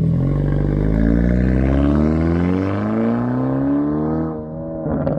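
Car engine revving up, its pitch rising steadily for about four seconds, then dropping off, with a short burst of noise near the end.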